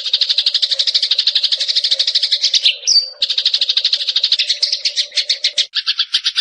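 Eurasian tree sparrow (burung gereja) giving a fast, dry rattling trill of about a dozen notes a second. A short sharp chirp breaks it about three seconds in, then the trill resumes and near the end drops lower in pitch.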